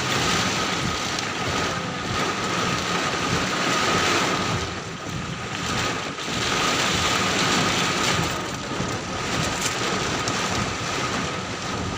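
Heavy downpour with gusting wind, the noise swelling and easing every few seconds, wind buffeting the microphone. A thin steady high tone runs underneath.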